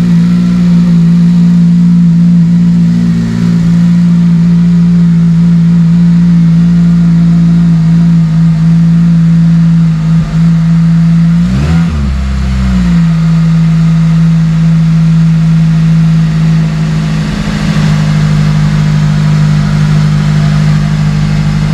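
Honda Civic Type R FN2's 2.0-litre four-cylinder engine, fitted with an Injen cold air intake with an open cone filter, idling steadily after installation. About twelve seconds in there is one short blip of revs.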